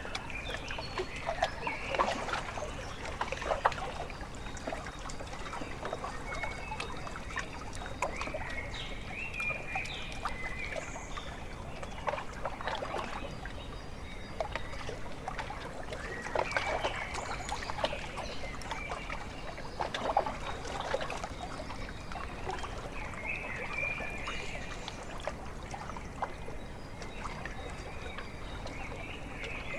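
Lake water lapping and trickling at the shore in small irregular splashes, with short bird calls every few seconds.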